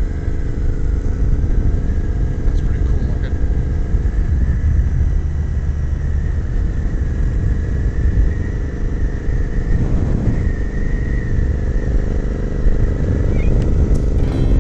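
Royal Enfield motorcycle engine running steadily while riding, under a heavy low rumble of wind on the microphone.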